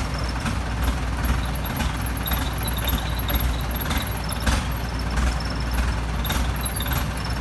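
Excavator's diesel engine running steadily, with scattered sharp knocks and clanks.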